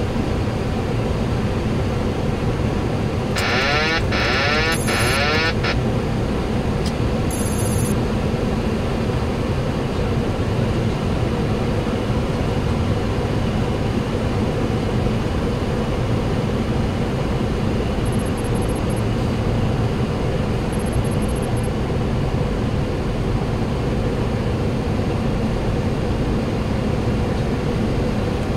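Steady flight-deck noise of a Boeing 737-800 on final approach: airflow and engine noise with no speech. A short warbling, crackly burst cuts in about three seconds in and lasts a couple of seconds.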